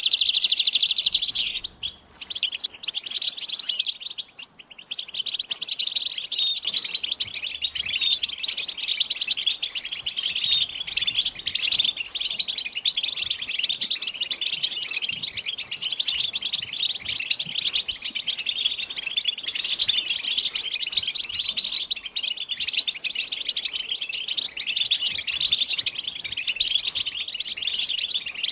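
European goldfinches chattering and singing: a fast, unbroken stream of twitters and trills, with short breaks about two and four and a half seconds in.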